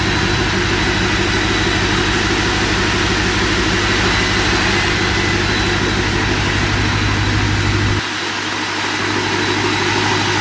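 A steady motor drone with a low hum under a broad hiss; the deepest part of the hum drops away about eight seconds in.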